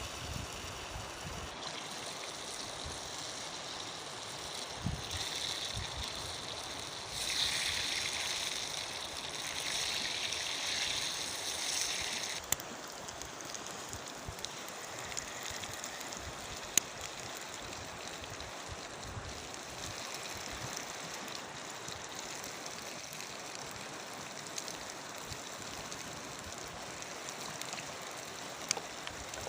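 Mountain river water rushing steadily. A louder, hissier stretch of the rush stops abruptly about twelve seconds in, and a few sharp clicks stand out against it.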